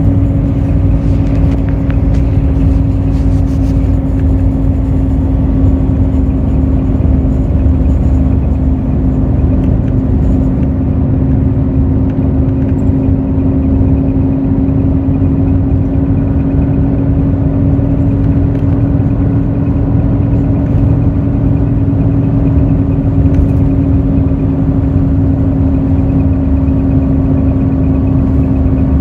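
Hino J08E-VD 7.7-litre diesel engine of a Hino RN8JSVU intercity bus running at steady revs under way, a constant drone with road rumble.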